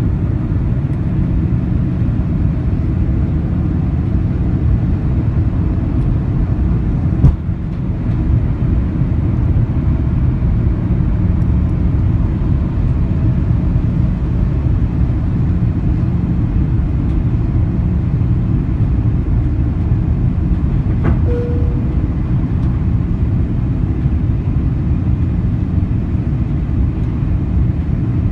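Steady low rumble inside the cabin of an Airbus A340-300 in flight: its four CFM56 engines and the airflow over the fuselage, heard from a window seat. A single sharp thump comes about seven seconds in, and a faint click with a brief tone around twenty-one seconds.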